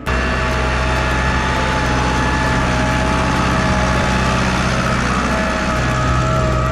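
Same Silver 100.4 tractor engine running steadily while working a field with a harrow, a low rumble with a steady whine above it.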